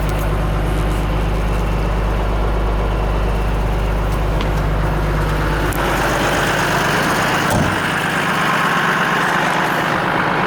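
Diesel engine of a Renault 110-170 4x4 truck idling with a steady deep hum; about six seconds in the deep note drops away and a higher, rougher engine noise rises in its place.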